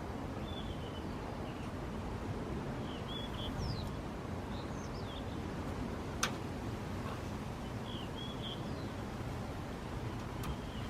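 Steady rush of seaside wind, with short, high chirps from small birds scattered throughout. A single sharp click comes about six seconds in.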